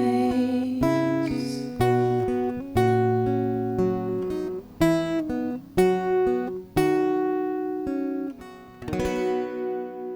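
Acoustic guitar strumming the closing chords of a worship song, about one chord a second, with a last chord near the end left to ring out and fade.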